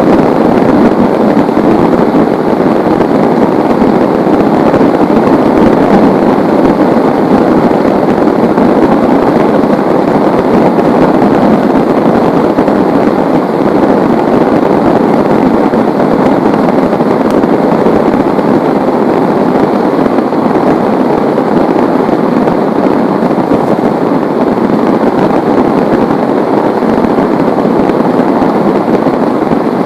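Heavy rain falling in a steady, dense downpour, an even hiss of drops with no thunder claps.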